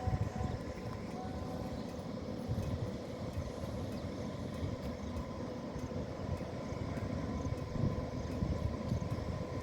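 Train running on the rails: a low, uneven rumble with a steady hum on top.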